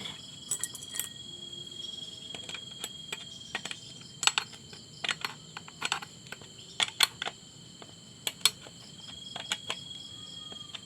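Irregular sharp clicks and taps of carburetor parts being handled, over a steady high trill of crickets.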